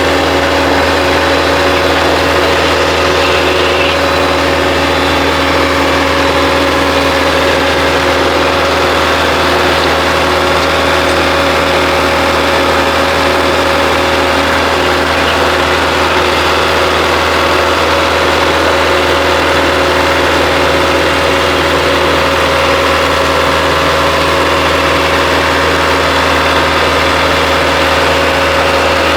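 An engine running steadily at an unchanging speed, loud and even throughout.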